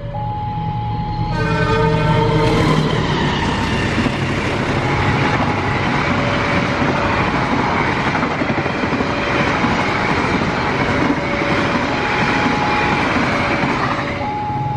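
A train sounds its horn briefly about a second in. It then passes over the level crossing with a loud, steady rush of wheels on rail for about eleven seconds. Throughout, the crossing's electronic warning alarm keeps alternating between a higher and a lower tone.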